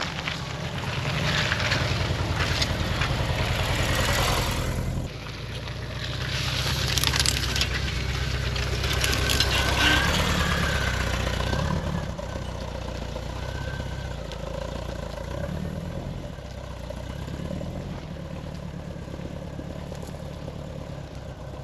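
1991 Volkswagen Vanagon Synchro's engine running, with loud crunching and rattling from the van moving over rough ground for about the first twelve seconds; after that the engine runs on more quietly.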